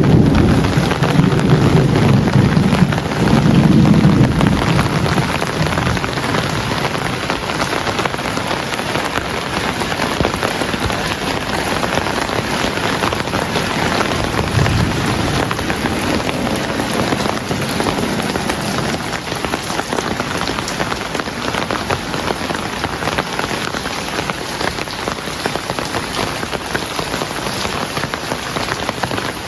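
Heavy rain falling steadily, with a low rumble of thunder in the first few seconds and a fainter rumble about halfway through.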